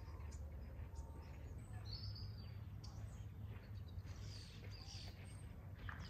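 Small birds chirping now and then, short high calls, over a steady low outdoor rumble.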